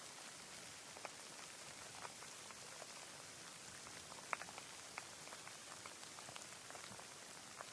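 Rain falling: a steady hiss with scattered single drops ticking, two sharper drops about four and five seconds in.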